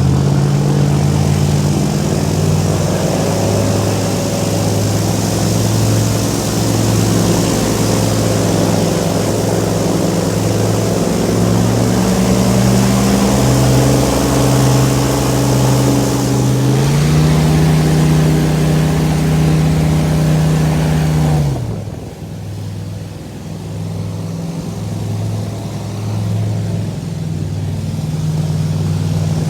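Boat engine running steadily under way. Its pitch climbs about halfway through and holds higher, then drops suddenly as the throttle is cut back, and the engine settles to a lower, pulsing note.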